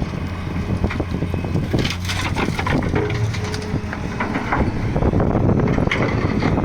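Doosan 200W excavator's diesel engine running steadily while loading a truck, with repeated clattering and crunching strikes of material throughout.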